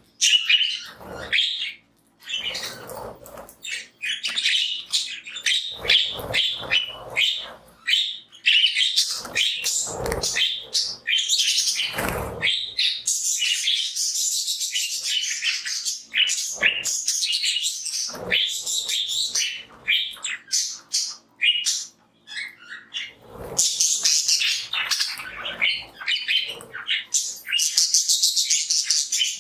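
A flock of budgies chirping and warbling continuously, with overlapping high chirps and chatter, along with a few short rustling or scuffling sounds.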